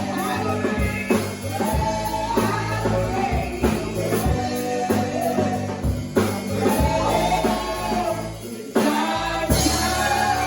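Live gospel praise music: voices singing over a band with a steady drum beat. It thins out briefly near the end, then the band comes back in loudly on held notes.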